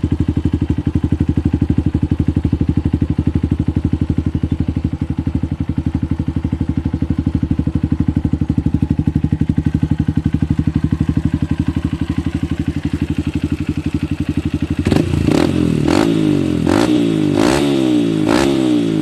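Honda CRF150's single-cylinder four-stroke engine running through a Triton aftermarket exhaust, idling with an even, steady pulse, then blipped in a series of quick revs from about fifteen seconds in.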